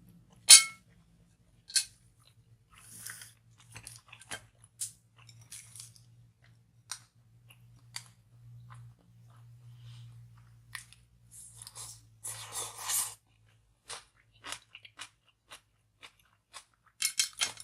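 Close-up chewing of a mouthful of kimchi: wet crunching and mouth clicks, with a sharp click about half a second in and heavier bursts of crunching near the end.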